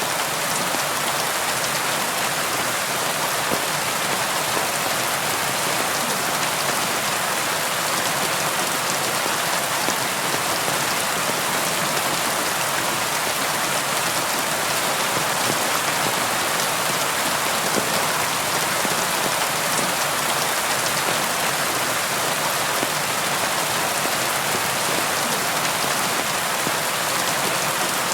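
Steady rain falling and pattering on a surface, an even hiss of many drops with no thunder or other events.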